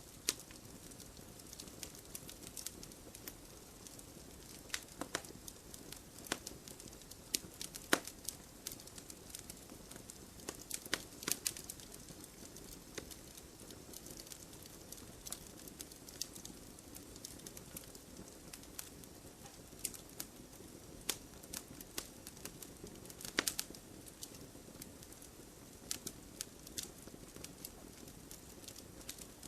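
Wood campfire burning, crackling with irregular sharp pops of varying loudness over a steady soft hiss of the flames.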